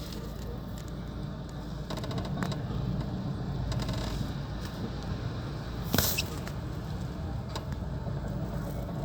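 Outdoor street ambience: a steady low rumble with scattered light clicks, and one sharp knock about six seconds in.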